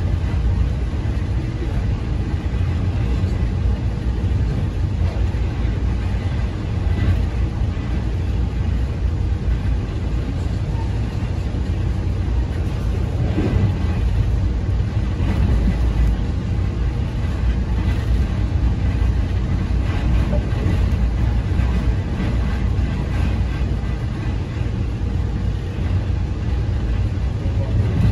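Amtrak Empire Service passenger coach under way, heard from inside the car: a steady low rumble of wheels and running gear on the track.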